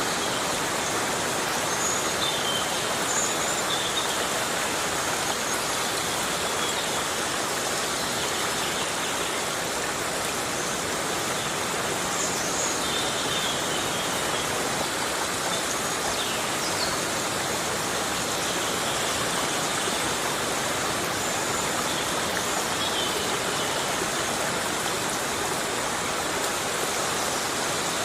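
Heavy rain falling steadily, a dense even hiss with no pauses, with a few faint short high chirps now and then.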